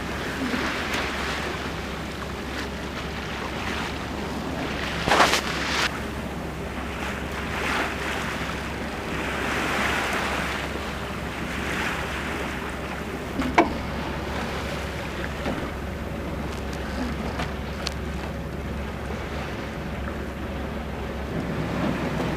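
Sea water rushing and splashing along a sailing yacht's hull under way, in swells every few seconds, with wind buffeting the microphone. Two sharp knocks stand out, about five seconds in and again near fourteen seconds.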